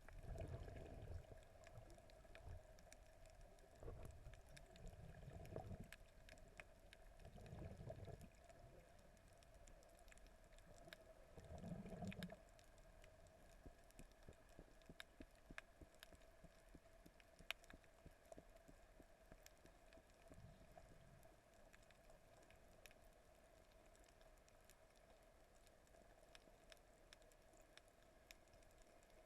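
Faint underwater ambience: scattered crackling clicks over a steady faint hum, with a few low surges of moving water in the first half.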